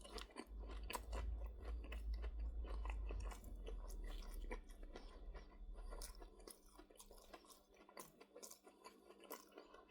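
A person chewing a dry chicken nugget close to the microphone: a run of small wet clicks and crunches, with a low rumble through the first half.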